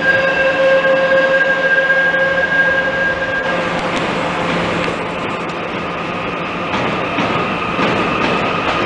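Electric commuter trains running through a station. For the first few seconds there is a steady, high-pitched whine. After a short change, a second train passes with a higher whine and light clicking of wheels over rail joints.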